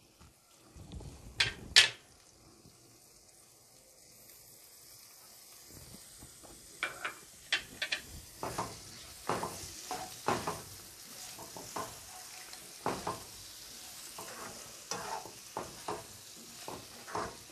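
Spiced potato cubes sizzling in oil in a non-stick pan, the hiss building a few seconds in. A spatula scrapes and taps against the pan as they are stirred, about twice a second, after two sharp knocks near the start.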